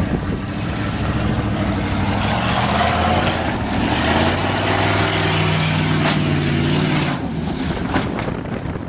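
1988 Chevrolet pickup truck's engine running hard under load on a hill climb, its note growing stronger about a third of the way in and fading out near the end, over a steady rushing noise.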